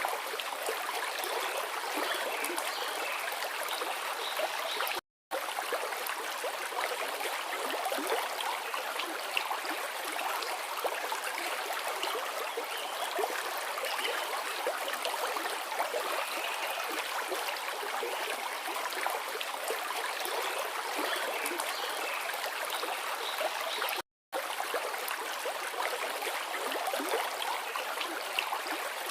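Forest river flowing over rocks: a steady rushing and burbling of water. The sound cuts out to silence for a split second twice, about five seconds in and near the end.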